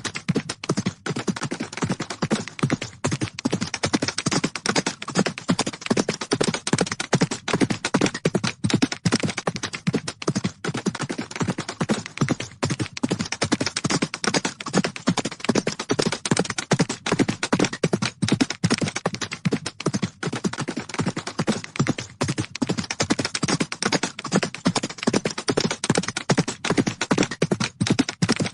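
Horses galloping: a dense, unbroken drumming of hoofbeats on the ground.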